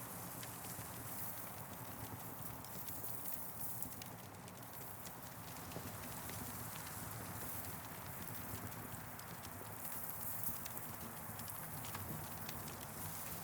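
Campfire burning, crackling with many small irregular pops over a steady hiss.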